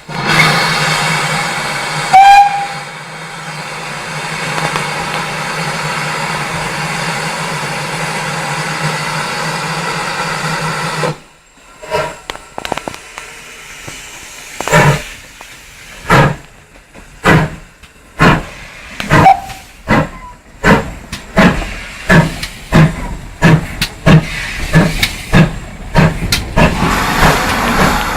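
Pannier tank steam locomotive 5786 hissing steam steadily, with a short loud whistle about two seconds in. The hiss stops about eleven seconds in, and the engine pulls away with exhaust chuffs that start slow and quicken as it gets under way.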